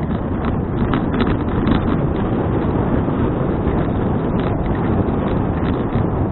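Wind buffeting the action camera's microphone while a touring bicycle rolls along, with irregular clicks and rattles from the bike over the path.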